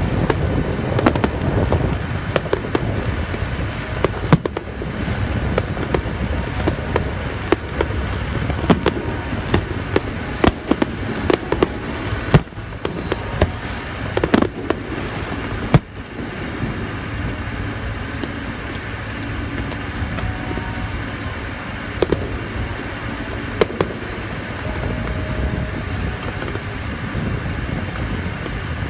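Aerial fireworks bursting and crackling in quick succession, thick for the first half, then thinning to a few separate bangs, over a steady low background rumble.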